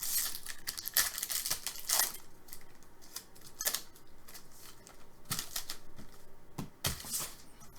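Trading cards being handled and sorted: a second or so of sliding and rustling, then a scatter of sharp clicks and taps.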